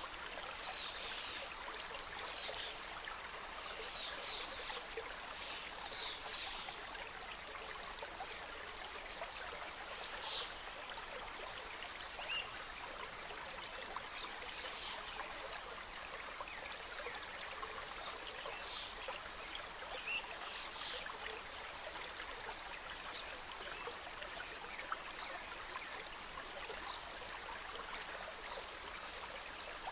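Mountain stream flowing over rocks: a steady rush of water with brief small splashes coming and going.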